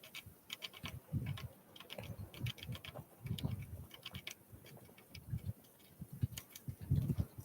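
Small wild birds pecking and tapping at seed: quick runs of light, sharp taps, mixed with soft low thumps, the loudest of them near the end.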